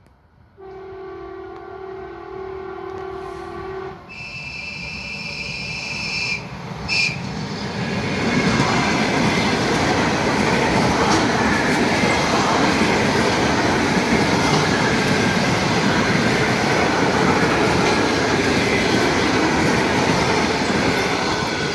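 A train passing: its horn gives one long low blast, then a higher-pitched blast and a short toot a few seconds later. The wheels then rumble and clatter loudly and steadily as the train runs by.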